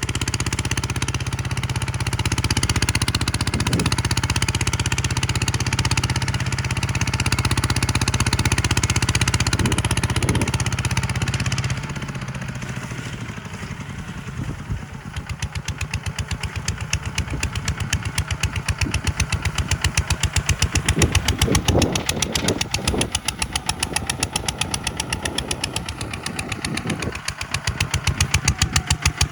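Farm tractor's diesel engine running steadily. About twelve seconds in it drops to a lower, evenly pulsing beat, then builds again towards the end.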